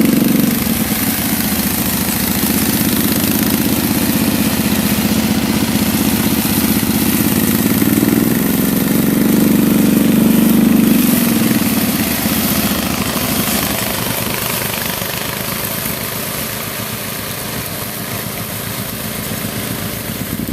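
Four-wheeler engine running steadily at a low drone, swelling about halfway through and easing off toward the end.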